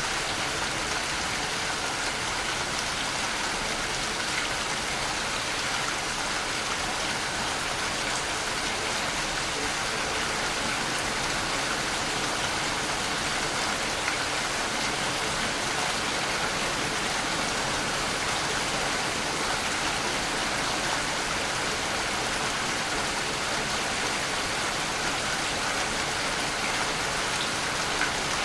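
Waterfall: falling water rushing steadily, an even hiss that never changes or breaks.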